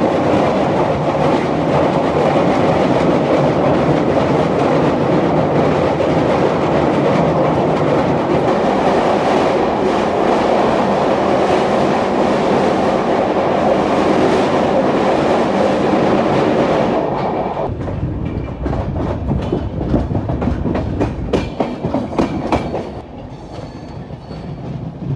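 Blue LHB coaches of an Indian express train running at speed: a loud, steady rumble of wheels on rail. About seventeen seconds in it turns quieter and broken by rapid clicks of wheels over rail joints and points as the train runs into a station yard.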